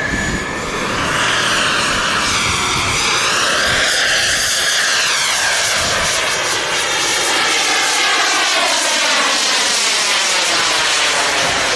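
Giant-scale radio-controlled model airplane flying past, its engine swelling about a second in and holding loud while the pitch pattern sweeps as it moves by.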